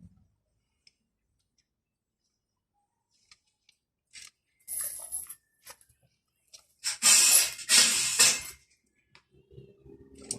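Window-regulator parts and hand tools being handled during a car window repair: a few light clicks, a short rustling scrape about five seconds in, then a louder harsh noise lasting about a second and a half near seven seconds.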